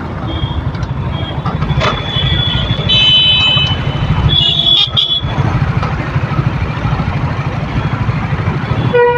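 Motorcycle engine running under way in traffic, with vehicle horns honking over it: several high-pitched beeps between about two and five seconds in, and a lower horn blast near the end.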